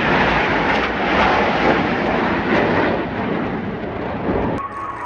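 Jet noise from Aermacchi MB-339 display jets flying past, a loud, steady rush. It cuts off abruptly near the end.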